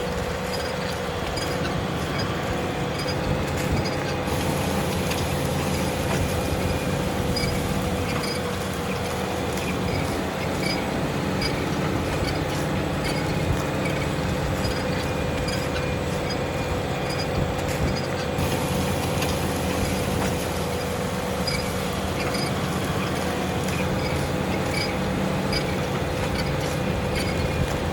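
Fendt tractor engine running steadily under load while pulling a plough, with a constant hum and a steady whine, and faint regular ticking over it.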